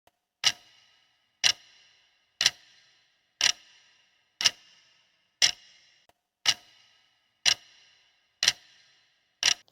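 Clock ticking sound effect marking the answer countdown: ten short ticks, one a second.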